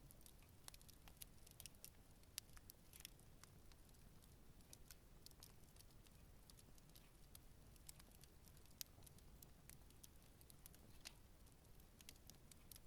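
Campfire burning gently: the wood crackles with many faint, irregular snaps and ticks and a few louder pops, over a low steady rumble.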